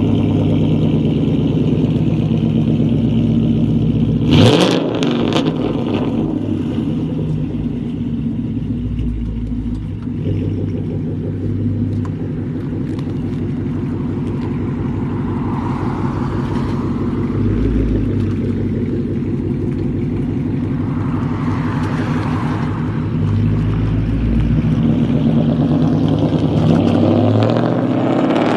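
2012 Mustang GT's 5.0 V8 running loud through BBK shorty headers and straight pipes with no cats, resonators or mufflers. The revs jump sharply about four seconds in, then settle back to steady running with a few swells.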